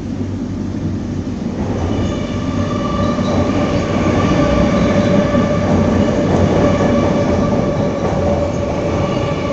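A train crossing the bridge overhead: a heavy rumble, and from about two seconds in a steady high-pitched whine of several pitches at once that swells and holds.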